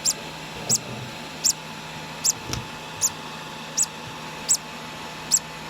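Two-day-old conure chick peeping during hand-feeding: short, high squeaks repeated evenly, about eight in all, roughly one every three-quarters of a second.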